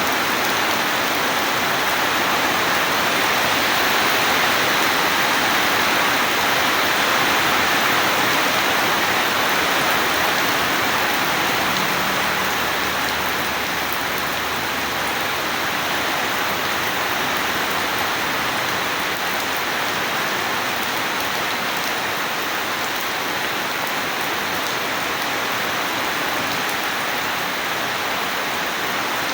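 Steady heavy rain falling, a continuous even hiss without a thunderclap.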